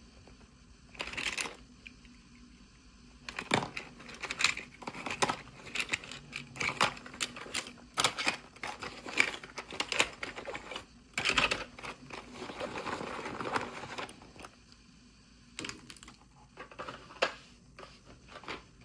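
Small plastic packaging and toy pieces handled up close: a run of sharp clicks and taps, with a stretch of rustling about two thirds of the way through.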